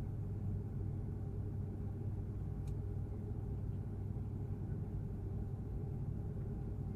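Steady low rumble of cabin noise inside an Airbus A330-300 on the ground after landing, with one faint click about two and a half seconds in.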